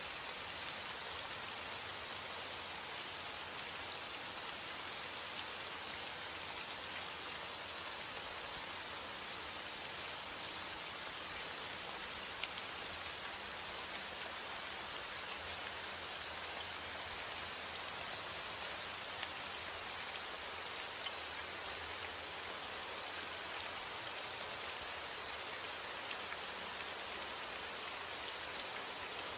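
Steady rain falling, a constant hiss of drops with many small distinct drop ticks on a surface.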